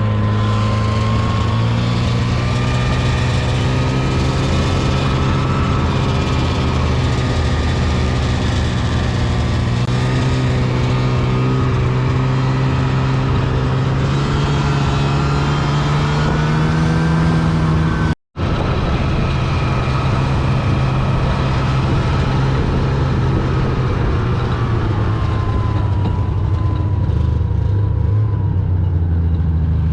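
A vehicle engine running steadily under load, heard loud and close, its pitch drifting slowly up and down, with a brief cut-out about two-thirds of the way through.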